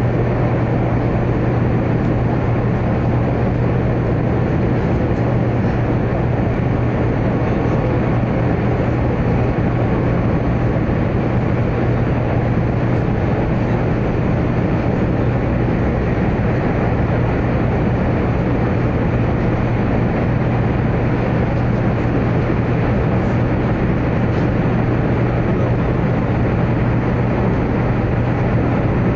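Interior running noise of a 100 series Shinkansen car at speed in a tunnel: a loud, steady rush of wheels on rail and air, with a constant low hum underneath.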